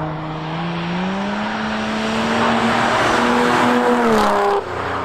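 Jaguar XJ saloon's engine under acceleration, its note climbing about a second in and holding. Just after four seconds the note falls away as the car drives past, then breaks off sharply.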